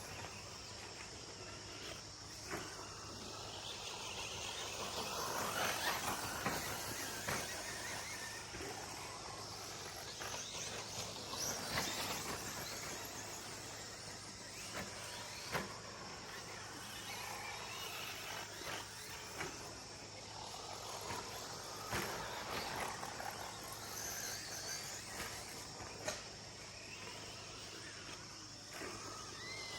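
RC short course trucks racing on a dirt track: motor whines rising and falling as the trucks pass, with scattered sharp knocks from landings and hits. Crickets chirr steadily behind.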